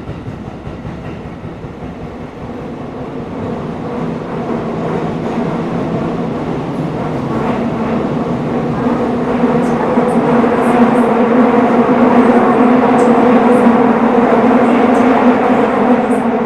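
Tokyo Metro 17000 series subway train running, heard from inside the car: a steady rumble of wheels and running gear with a humming tone. It grows steadily louder through the middle and stays loud near the end, with a few faint high ticks.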